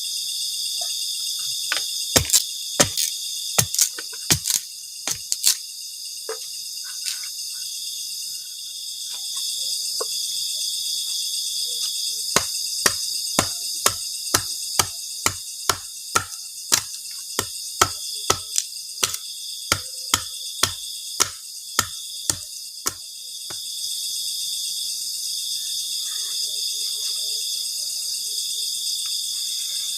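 Steady chorus of night insects, crickets among them, overlaid by two runs of sharp chopping knocks at about two a second, one beginning a couple of seconds in and a longer one through the middle.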